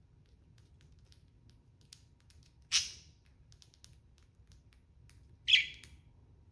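Budgies chirping: two loud, short calls about three seconds apart, with faint scattered chirps and clicks between them.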